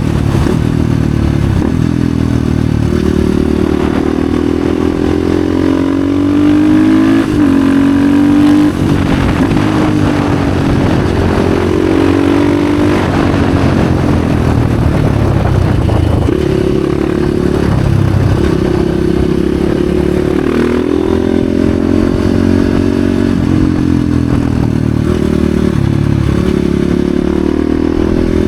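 Husqvarna FE 450 single-cylinder four-stroke enduro engine through an FMF exhaust, ridden hard: the revs climb and drop again and again through gear changes, with sharp drops at the shifts and a long slowdown midway.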